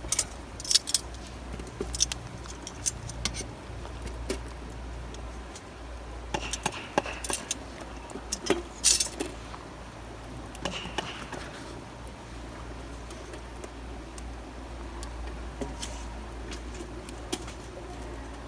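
Scattered light clinks, taps and rattles of small hard objects being handled, like camping gear, over a steady low rumble. The clinks are thickest in the first half and around the middle.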